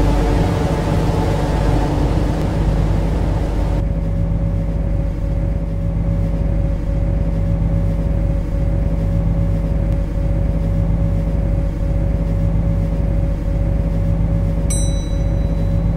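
MTR Kwun Tong Line C-Train heard from on board: a steady low rumble and hum with a constant whine. A hiss drops away about four seconds in, and faint high squealing tones begin near the end.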